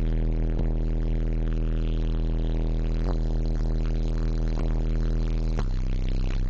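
Bass-heavy music played loud through a truck's four Digital Designs 500-series 15-inch subwoofers, long deep bass notes overloading the microphone, with the note changing once near the end.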